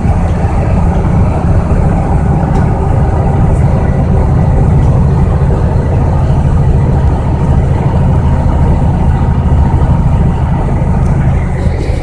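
Truck engine running steadily with a loud, even low drone.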